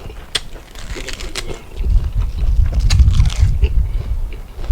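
Eating sounds close to the microphone: chewing and biting on spicy corn and seafood salad, with several sharp clicks and smacks.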